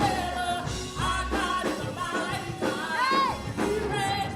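Live gospel praise music: a church band playing with singing voices over a steady drum beat.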